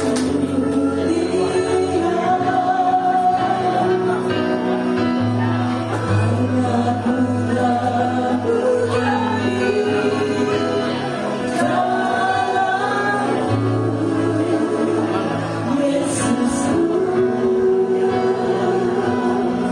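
Choir singing a Christmas song, with long held notes.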